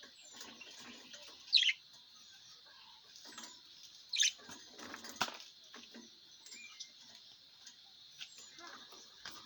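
Small birds chirping: short, sharp, falling chirps, two of them loud at about one and a half and four seconds in, over a steady high hiss.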